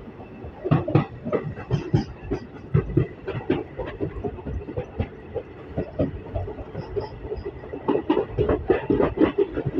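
Moving Indian Railways ICF passenger coach: a steady wheel-on-rail rumble with frequent, irregular knocks and rattles as the wheels run over the track.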